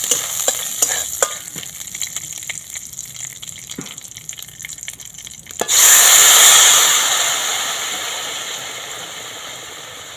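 Whole spices (bay leaf, dried red chilli and panch phoron) crackle in hot oil in a kadai, with a spatula clicking and scraping against the pan. A little under six seconds in, boiled vegetables are tipped into the oil, setting off a sudden loud sizzle that slowly dies down.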